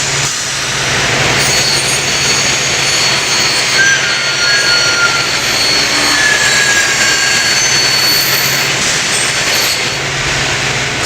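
Scotchman SUP-600 NF up-cutting circular saw running and cutting a 45-degree miter through non-ferrous stock. A steady motor hum carries through, with high-pitched ringing tones from the blade in the metal starting about a second and a half in.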